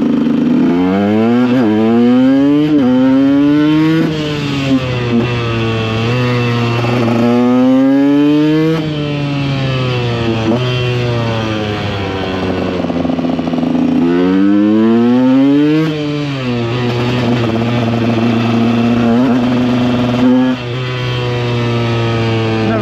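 KTM EXC 125's two-stroke single-cylinder engine accelerating through the gears. The pitch rises and drops back at each shift: quick upshifts in the first few seconds, a long pull, steady cruising, another burst of quick shifts midway, then steady running until the revs drop near the end.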